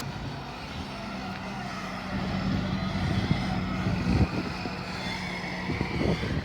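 An engine running steadily with a low hum, and a few knocks partway through.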